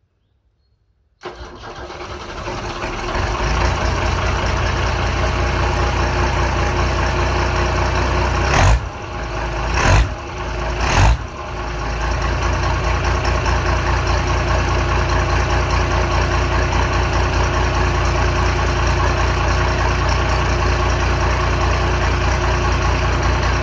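Straight-piped Perkins 6.354 six-cylinder diesel of a Michigan 45B wheel loader starting from cold: it catches suddenly about a second in, builds up over a couple of seconds, then runs steadily. Three sudden loud bursts come about a second apart near the middle before it settles back to a steady run.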